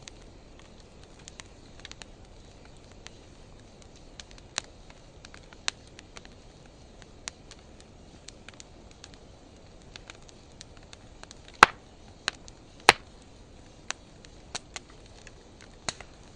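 Wood fire crackling: scattered sharp pops and snaps from burning driftwood and dry hardwood over a faint steady hiss, with two loud pops a little over a second apart about two-thirds of the way through.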